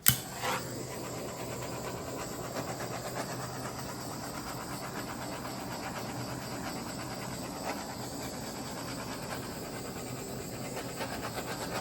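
Handheld torch flame hissing steadily, lit with a click at the start and cut off abruptly with a click near the end.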